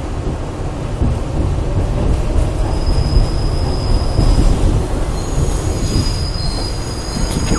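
New York subway 7 train running on its rails with a steady low rumble; about two and a half seconds in, its wheels begin a high, steady squeal, with several squealing pitches overlapping toward the end.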